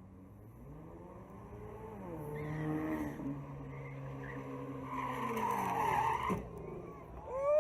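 Car engine running and speeding up, then tyres skidding for about a second and a half and ending in a short knock. Near the end comes a loud, brief high-pitched tone that rises and falls.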